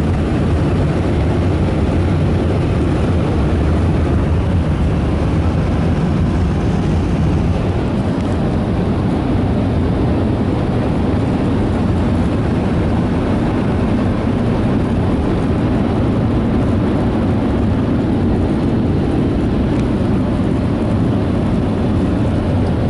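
Air dryer blowers of a Ryko SoftGloss XS in-bay car wash running, a steady, loud rush of air heard from inside the car.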